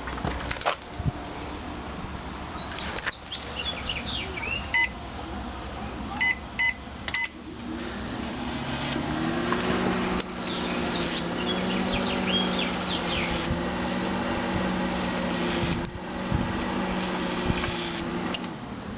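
Panasonic microwave oven's keypad beeping, once and then three times as it is set, then the oven starting up and running with a steady low hum that stops near the end. Birds chirp faintly in the background.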